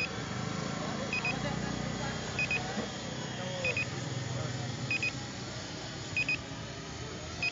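An electronic beeper sounding a short double beep about every 1.2 seconds, evenly repeated, over a murmur of background voices.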